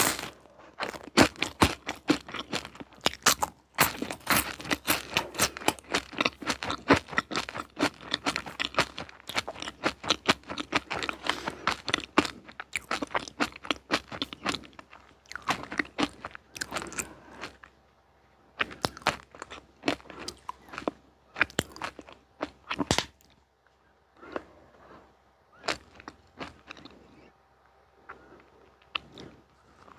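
Close-miked chewing of crunchy sweets: dense, rapid crunching for the first half, slowing to sparser single crunches with short quiet gaps after about the middle.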